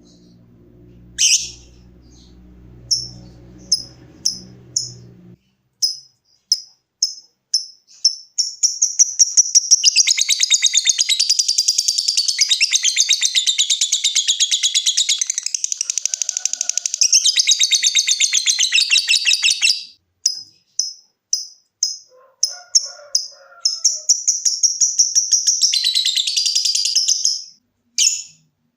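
Lovebird singing in its prized 'ngekek' style: rows of short, sharp, high chirps (the 'ngetik' ticking) that speed up and run together into a long, unbroken rapid chattering trill lasting about ten seconds. After a second run of ticks it trills again for a few seconds near the end.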